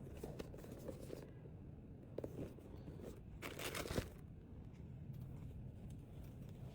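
Faint rustling and crinkling of packaging being handled, with a short crackle about two seconds in and a louder crinkling rustle between about three and a half and four seconds in.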